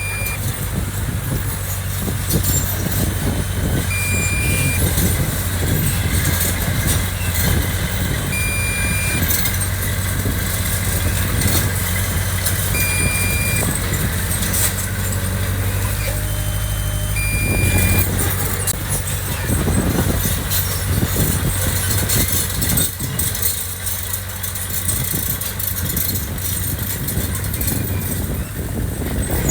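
Heavy diesel earthmoving machinery running steadily with a low rumble. A high single-tone warning beep sounds about every four and a half seconds, five times, then stops a little past halfway.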